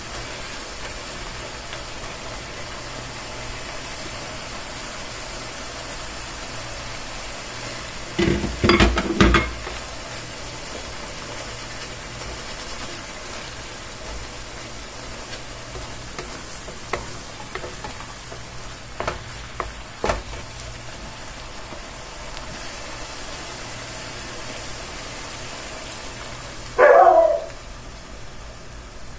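Meat, shrimp and onion sizzling in a hot wok as they are stir-fried with a wooden spatula. There is a cluster of louder knocks about eight to nine seconds in, a few light clicks later, and a short loud sound near the end.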